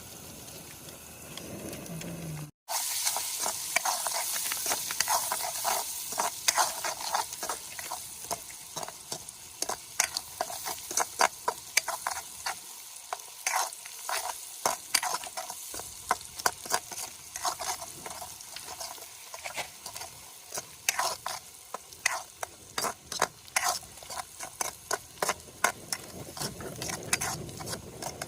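Food frying in hot oil in a pan, a steady sizzle with frequent sharp pops and crackles, cutting out for an instant about two and a half seconds in.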